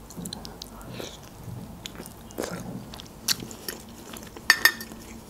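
Chewing and biting sounds of someone eating a stuffed bell pepper, with scattered short clicks and smacks; the loudest pair comes about four and a half seconds in.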